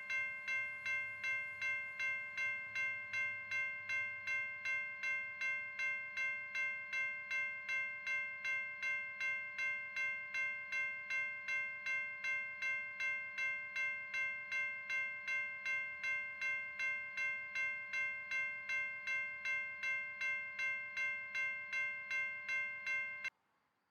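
Railroad grade-crossing bell ringing steadily, about two strokes a second, then stopping abruptly near the end.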